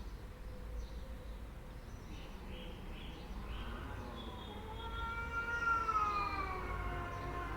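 Cats caterwauling in a fight: faint short cries at first, then about halfway through a long, drawn-out yowl that swells and slowly falls in pitch.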